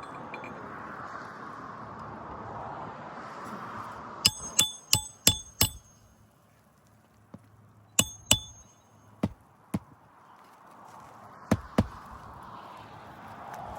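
Hammer striking roofing nails in a shingle repair: a quick run of five ringing metal blows, then pairs of blows a second or two apart.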